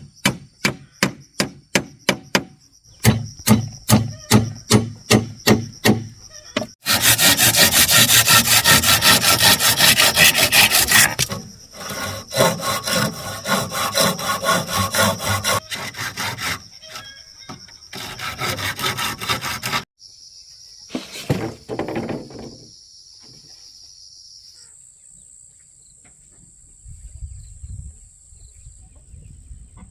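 Wood being worked by hand: a run of quick, even strokes, about four a second, then longer bouts of sawing through wood. Near the end the sawing stops, leaving a steady high buzz of insects.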